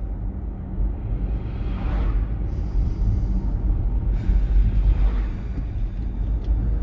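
Road and tyre rumble inside a moving electric car's cabin, with no engine sound, and two whooshing swells of passing traffic about two and five seconds in.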